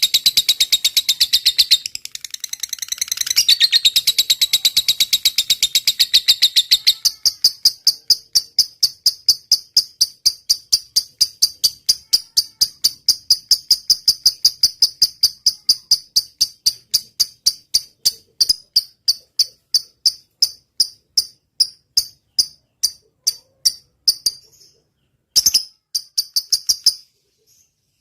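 Lovebird singing a long, rapid "ngetik" (typing-like) trill. It starts as dense, shrill chatter, then after about a quarter of the way in narrows to one high note repeated several times a second. The notes gradually slow and thin out toward the end, finishing with two short bursts.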